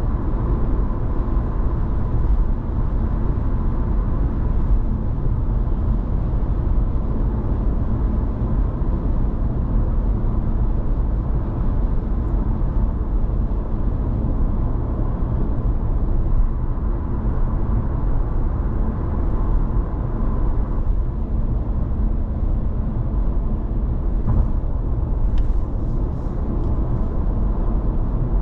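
Steady road and tyre noise with engine hum inside a Honda ZR-V's cabin while cruising on an expressway, an even low rumble, with a few faint ticks near the end.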